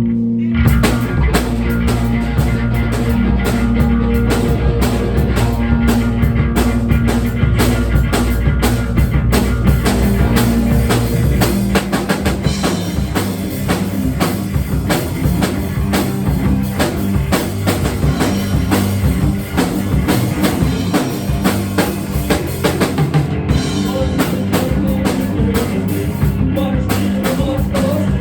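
Rock music: a drum kit playing a steady beat over electric guitar and bass, with the bass line changing about twelve seconds in.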